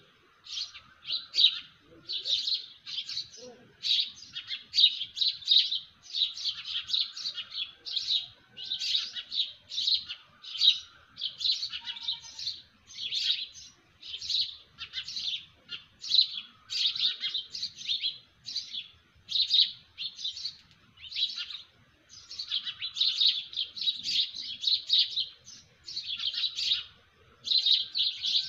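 Small birds chirping in a dense, continuous morning chorus of short high calls, several a second, with no break.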